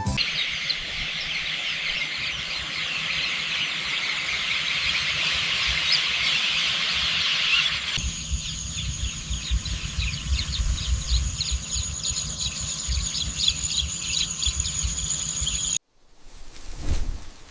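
Outdoor nature ambience: a dense, high-pitched chirping chorus that switches abruptly about eight seconds in to a steady high buzz with chirps over it. It cuts out shortly before the end, and a low swishing sound follows.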